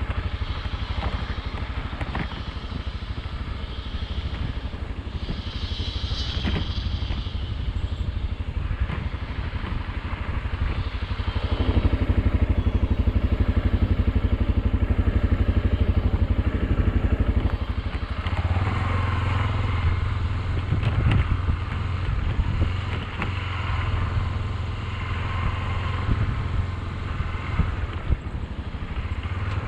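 Motorcycle engine running on the move. It gets louder and fuller about twelve seconds in, then settles to a different, lower note about six seconds later.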